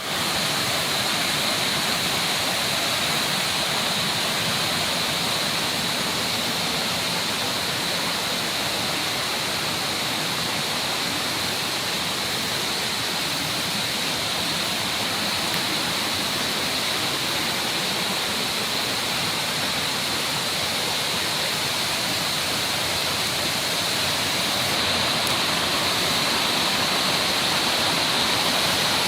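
Mountain stream water rushing and splashing over rocks: a steady, even rush of flowing water.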